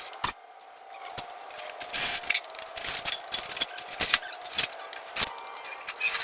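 Clattering of tools and junk being handled and moved around in a workshop: an irregular string of sharp knocks, rattles and scrapes.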